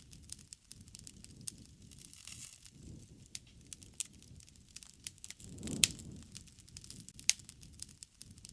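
Wood fire crackling and popping: irregular sharp snaps, one louder pop a little before six seconds in and another near seven, over a soft low rush of flames that swells and fades.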